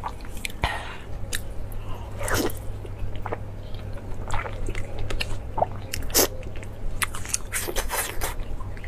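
A person chewing and biting through pieces of fish with fins, with many irregular sharp crunches and clicks over a steady low hum.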